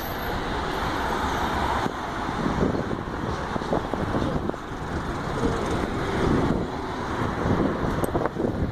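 Albanian Railways passenger train running along the track, heard from an open carriage window: a steady rumble of wheels and carriages with scattered knocks.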